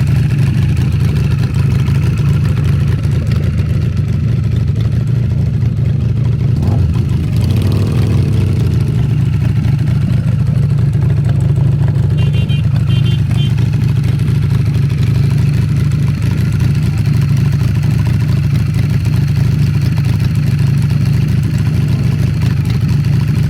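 Motorcycle engine running loud and steady close by, with a brief rise and fall in engine pitch about eight seconds in.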